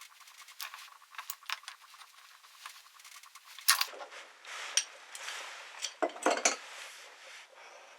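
Small metal tools and parts clinking and clicking as they are handled, with a run of light ticks. A louder clink comes a little before the middle, then scraping and rustling with a few sharper clinks.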